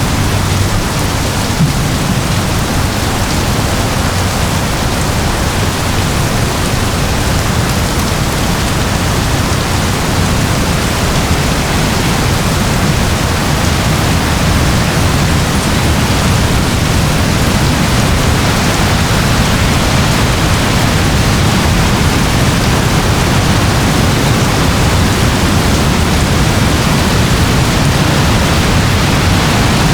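Gentle rain falling steadily: an even hiss with a low rumble beneath it.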